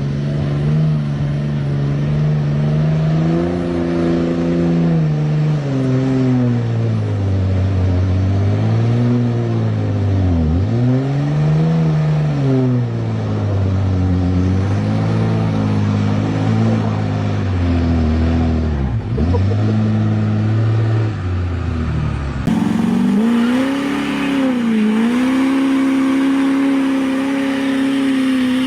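Diesel truck engine being revved up and down again and again, its pitch swinging and twice dropping low before climbing back. About two-thirds through, the sound changes abruptly to a steadier, higher-revving run with one brief dip.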